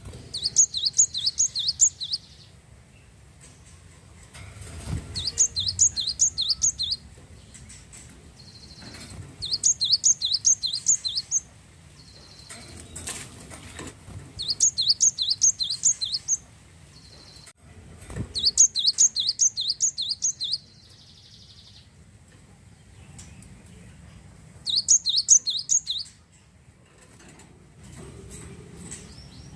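Glatik wingko singing: bursts of about two seconds of rapid, repeated high, down-slurred notes, six times, with short pauses between them in which a brief flat whistle sometimes sounds.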